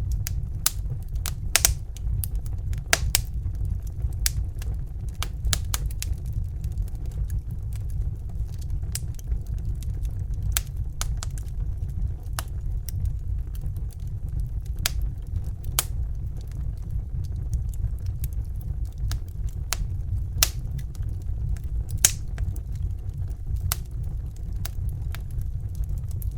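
Fire crackling with irregular sharp pops and snaps, a few louder than the rest, over the steady low roar of a Bunsen burner flame.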